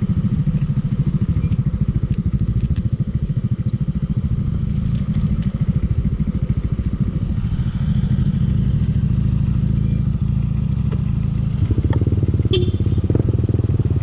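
Motorcycle engine running under way, its firing pulses steady and close together. It gets somewhat louder about two-thirds of the way in and again near the end, as with more throttle.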